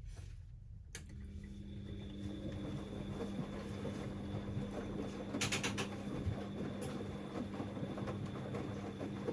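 Siemens Extraklasse XLs 140 A washing machine during its Cottons 60°C stains wash: a steady motor hum starts about a second in, over the churn of the wet load in the drum, with a brief rattle about halfway through.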